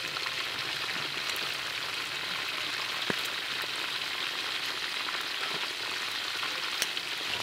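Whole quail deep-frying in hot oil in a wok, a steady sizzle of bubbling oil, with two sharp clicks, one about three seconds in and one near the end.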